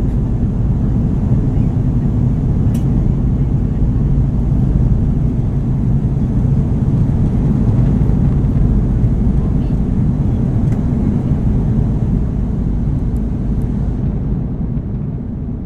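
Steady low drone of an Airbus A330's engines and rushing air heard inside the passenger cabin, dulling and fading out near the end.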